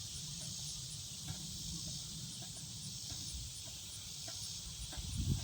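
Outdoor ambience: a steady high hiss of insects over a low rumble of wind on the microphone, which grows louder and gustier near the end.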